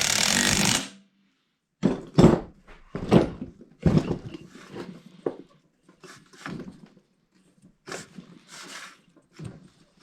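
A burst of compressed air hissing for about a second, then the old engine, converted to run on compressed air, turning over in uneven puffs and knocks. Something inside it is hitting as it turns.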